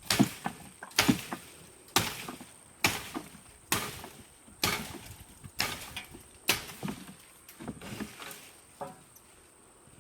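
A steady series of sharp knocks, about one a second, each followed by a few smaller clatters.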